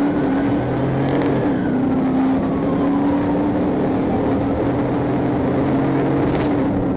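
Police patrol car running hard in a pursuit: steady engine and road noise heard from inside the car, with a siren's faint slow wail rising and then falling behind it.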